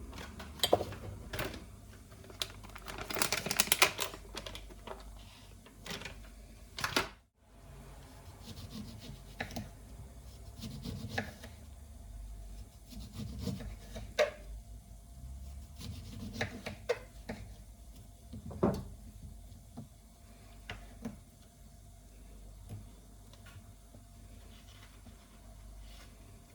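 Small objects being handled in a kitchen: scattered clicks, knocks and rubbing, with a brief dense flurry of scraping about three to four seconds in and a momentary break a few seconds later.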